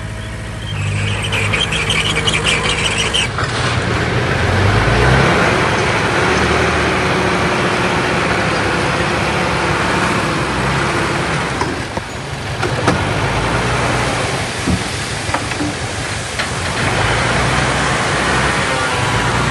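Diesel engine of heavy earthmoving machinery running hard, its engine speed shifting a few seconds in, over a steady din of working noise.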